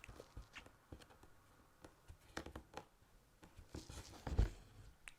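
Faint scratching and swishing of an embroidery needle and crewel wool being drawn through fabric, with scattered soft ticks and a low bump about four seconds in.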